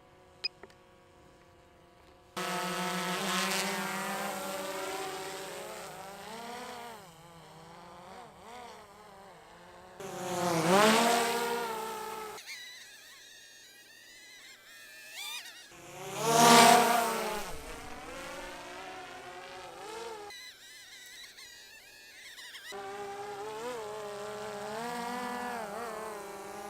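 DJI Phantom quadcopter's motors and propellers buzzing in flight, the pitch rising and falling as the throttle changes. It swells loud twice, about ten and sixteen seconds in, and the sound breaks off abruptly several times.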